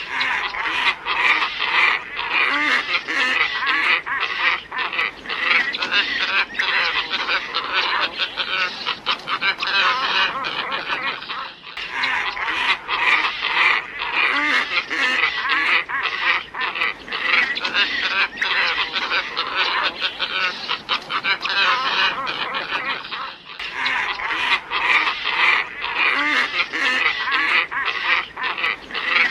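A flock of glossy ibises calling, many calls overlapping in a dense chorus. It breaks off for a moment twice, about every twelve seconds, where the lure recording loops.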